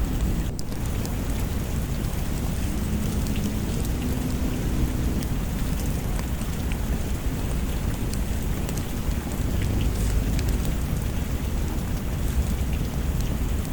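Steady rain with a constant low rumble, sprinkled with the scattered small pops and crackles of a wood fire burning in a fireplace.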